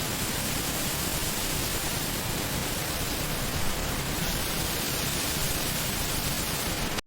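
Steady, even noise like a loud hiss or rush, with no distinct knocks, tones or rhythm. It drops out abruptly for a moment at the very end.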